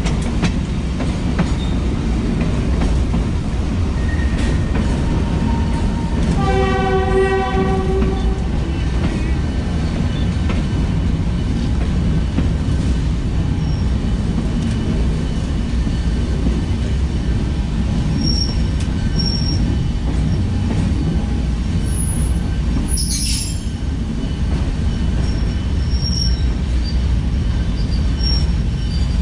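Freight railroad train heard from its caboose: a steady rolling rumble with wheel clatter, the locomotive's air horn sounding once for about two seconds some seven seconds in, and high-pitched wheel squeal coming and going in the second half as the cars take the curving track.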